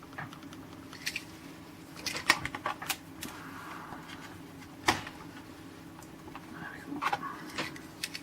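Hands handling a boxed toy train set: scattered clicks, taps and light rattles of cardboard and small toy pieces, with the loudest knock near the middle.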